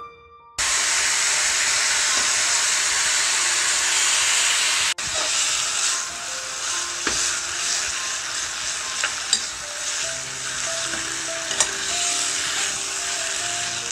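Pork belly and kimchi sizzling as they stir-fry in a pot, starting about half a second in, with a spoon stirring and clicking against the pot in the second half. Soft background music with plucked notes is faintly heard under it.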